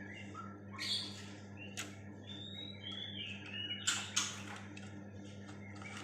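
A few short chirps from small birds, with brief rustling and knocking as a birdcage's water cup is fitted, over a steady low hum.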